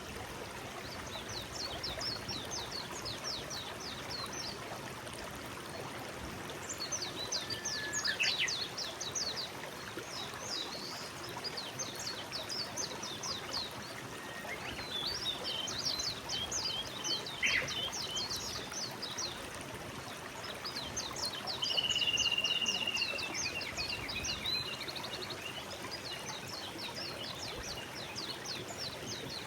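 Forest stream flowing with a steady rush of water, while songbirds sing repeated high, rapid trills every few seconds over it, with one longer held whistle about two-thirds of the way in.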